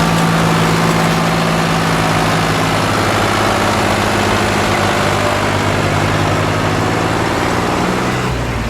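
Tractor's diesel engine running steadily and loudly close by, its note changing slightly just before the end.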